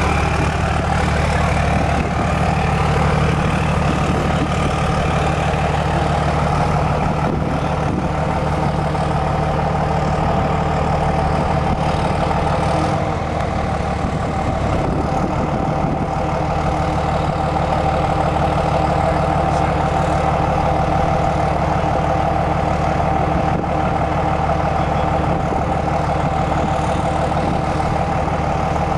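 Diesel truck engine running steadily through a 5-inch exhaust with no muffler, an even low drone; its note wavers briefly about 13 seconds in.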